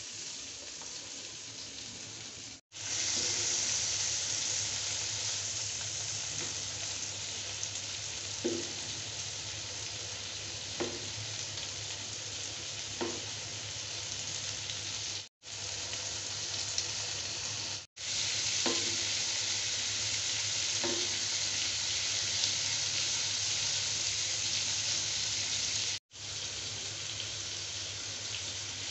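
Beef steaks sizzling as they fry in hot oil in a pan: a steady, dense sizzle, with a few faint taps along the way. The sound drops out briefly at a few edit cuts.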